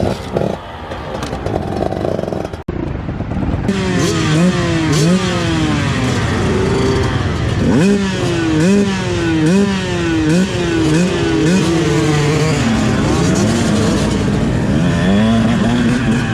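Motocross bike engine ridden hard, its pitch repeatedly climbing and dropping as the throttle is worked and gears are shifted, roughly one to two rises a second. The first few seconds are quieter and rougher before the revving starts.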